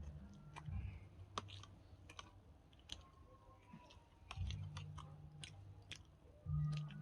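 Close-miked chewing in bursts, with sharp wet mouth clicks scattered throughout and a quieter pause in the middle.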